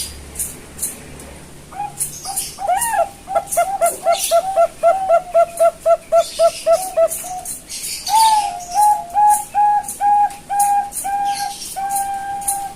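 Young Bangkok-strain zebra dove cooing its staccato song: a quick run of short notes, about four a second, then a slower phrase of longer notes ending on a held one. Sharp high ticks sound in the background.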